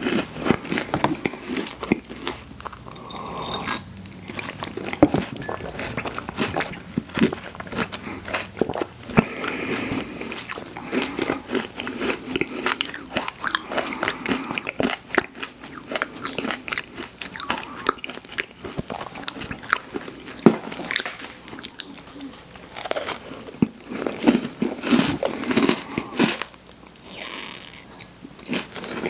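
Close-miked eating sounds: biting and chewing a crunchy sweet snack, with dense crisp crunches and wet mouth sounds throughout. A short hiss comes near the end.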